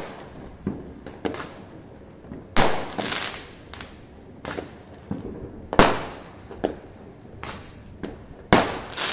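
Fireworks going off, with a string of sharp bangs at uneven intervals, some near and loud, others fainter and farther away; several big bangs trail off into a short crackle.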